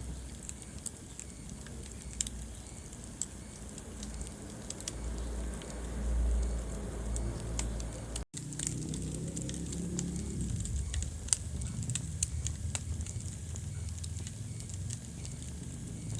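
Wood fire crackling in a fireplace: irregular sharp pops and snaps over the low rumble of the flames. The sound cuts out for an instant about eight seconds in.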